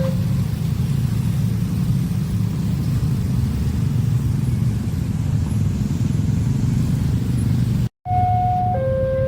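A passing train makes a steady, loud low rumble. After an abrupt cut near the end, a level-crossing alarm sounds its alternating two-note electronic tone.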